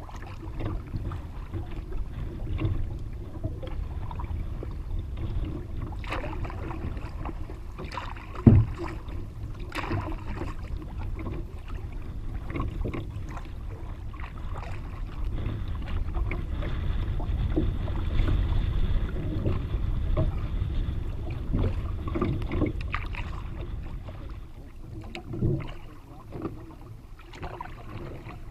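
A solo Kevlar canoe being paddled into the wind: a low wind rumble on the microphone with small knocks and water sounds from the paddling, and one sharp knock about eight and a half seconds in.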